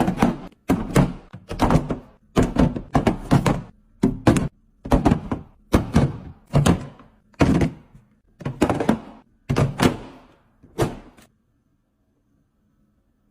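A series of about a dozen short thunks and knocks, roughly one a second, as items are handled and set down while a refrigerator is being arranged. They stop near the end.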